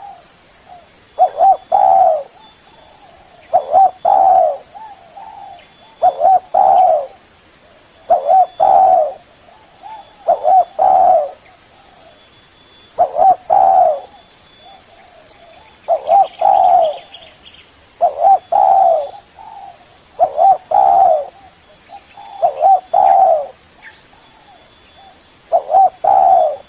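Spotted dove cooing: short phrases of coos repeated about every two to two and a half seconds, about eleven in a row, in the rhythm that keepers use as a lure call to draw a rival dove.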